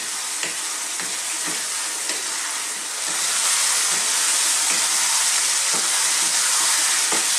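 Spiced potatoes and onions sizzling in a wok as their cooking water boils down, stirred with a wooden spoon that knocks and scrapes faintly against the pan. The sizzle gets louder and hissier about three seconds in.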